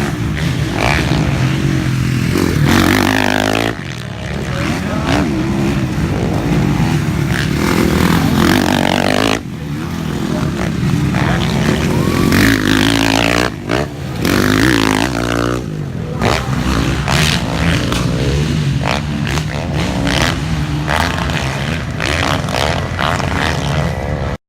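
Motocross dirt bikes racing, their engines revving up and down and rising and falling in pitch as they pass. The sound changes abruptly several times.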